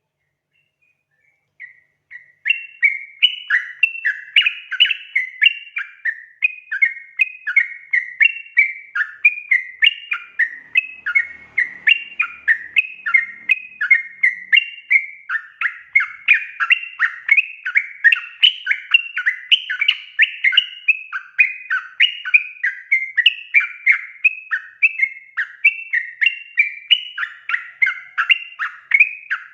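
Yellow-vented bulbul (trucukan) calling steadily in a fast, chattering run of bright notes, starting about two seconds in. This is the loud, persistent calling used as a lure to set other trucuk birds singing.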